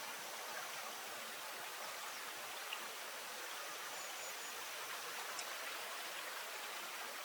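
Steady hiss of flowing water, with a faint high steady tone and a few brief, faint chirps of birds.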